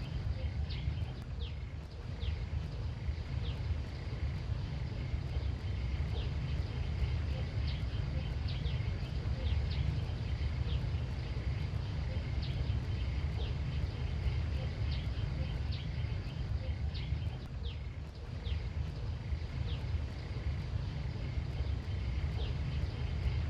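Outdoor ambience: a steady low rumble under many faint, short high chirps that come every second or so, with a faint steady high hum behind them.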